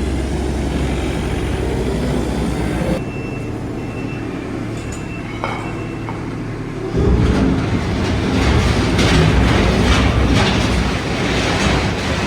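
A compact diesel machine's engine running, quieter for a few seconds, then loud again about seven seconds in with heavy clanking and clattering of the machine working.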